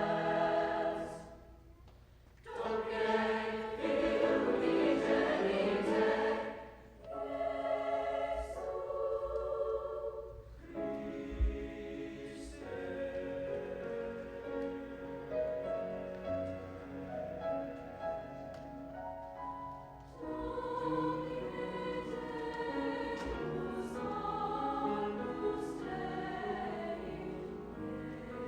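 High school choir singing, with two short breaks between phrases, about two seconds in and again around seven seconds, then singing on without a break.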